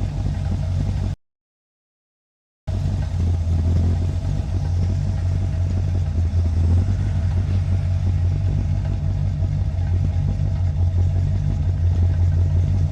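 1981 Corvette's 350 V8 idling steadily. The sound drops out completely for about a second and a half near the start.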